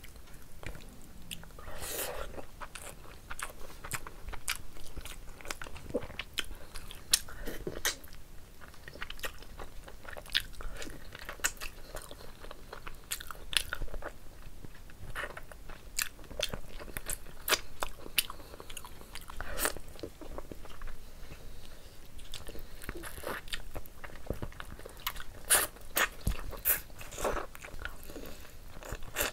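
Close-miked mouth sounds of a person eating mutton curry and rice by hand: biting and chewing meat pieces, with frequent irregular wet clicks and smacks.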